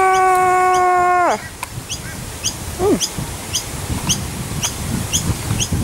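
A long held note at one steady pitch that slides down and stops about a second and a half in. After it, a small bird gives short high chirps, about two a second.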